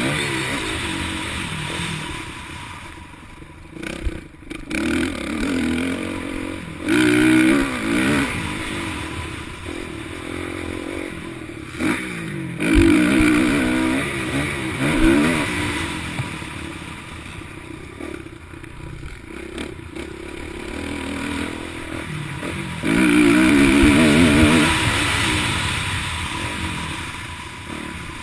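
Motocross dirt bikes racing past, engines revving hard and dropping back as the riders accelerate and shift, their pitch rising and falling over and over. The sound swells in several loud waves as bikes come close and fades between them.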